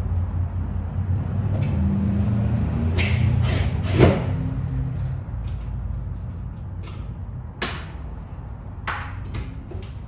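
Scattered metallic knocks and clanks of hand tools and parts while an old dash-mounted fan is taken off a school bus, the loudest about four seconds in. A low steady rumble runs underneath and fades about halfway through.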